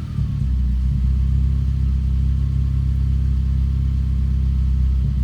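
9th-generation Honda Civic engine idling steadily on E85 after its first start with a new fuel pump, settling into an even idle about half a second in.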